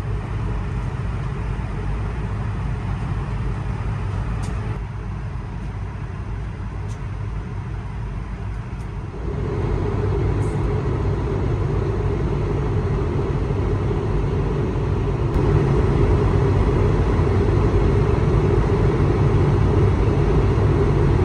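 Steady rushing drone of cabin noise aboard an Airbus A220 jet airliner. It steps louder abruptly about nine seconds in, with more of a mid-pitched roar, and again a little louder around fifteen seconds.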